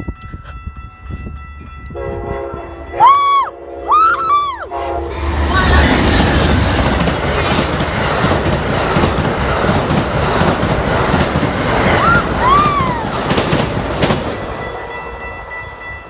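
Amtrak Empire Builder passenger train sounding a short multi-tone horn chord, then passing at speed without stopping with a loud, steady rush and wheel clatter that fades near the end. Two short high cries ring out over the horn.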